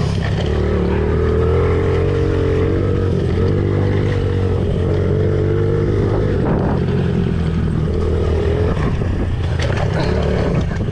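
Pit bike's small single-cylinder four-stroke engine running steadily, its pitch rising and falling a little with the throttle.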